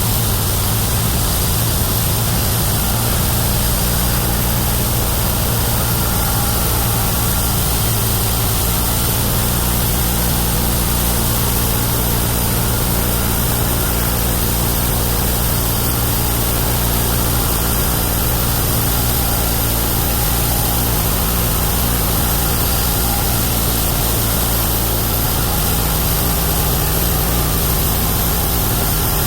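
Homemade 31 hp bandsaw mill's engine running steadily, with a low, even hum that does not change.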